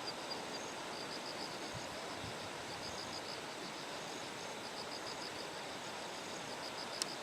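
Bell crickets (suzumushi) singing in repeated trains of short, high pulsed chirps over a steady rush of flowing water. There is one sharp click just before the end.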